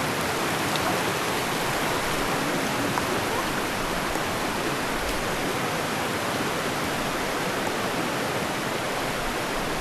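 Fast-flowing mountain river rushing steadily, an even, unbroken noise of churning water.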